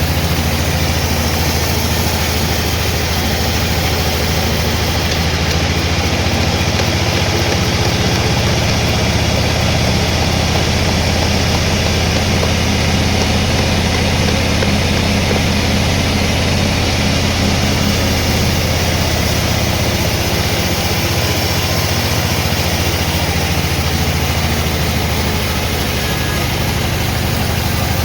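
Sawmill machinery running steadily: a low motor hum under a constant, loud mechanical noise.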